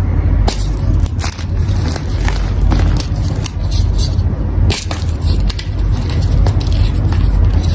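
Blocks of gym chalk being crushed, crunching and crumbling in many irregular crisp crunches, over a steady low hum.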